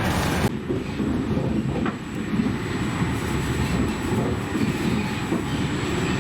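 Regional passenger train running, a steady low rumble of wheels on the track. A louder rushing noise across all pitches cuts off abruptly about half a second in.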